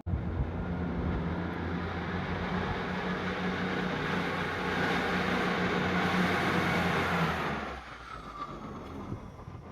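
A large vehicle running close by, a steady low engine hum under a loud rushing noise, which falls away sharply about seven and a half seconds in.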